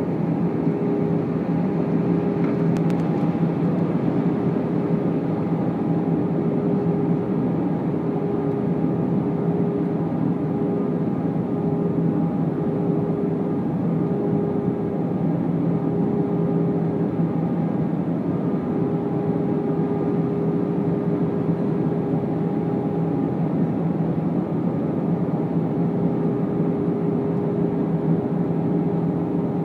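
Steady cabin noise of an Airbus A319 airliner in flight: a constant rush of air and engine noise with a steady low hum, and a faint click about three seconds in.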